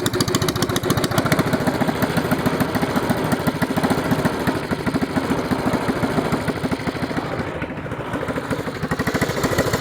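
Predator 212 single-cylinder four-stroke engine revved hard through a two-stroke expansion pipe fitted in place of its muffler, giving a loud, rapid train of exhaust pulses. It eases off briefly about three-quarters of the way through, then picks up again.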